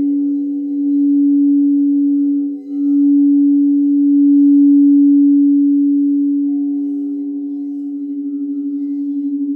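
Singing bowls ringing in a steady, sustained hum with a slow wobble. The sound dips briefly about two and a half seconds in, then swells again.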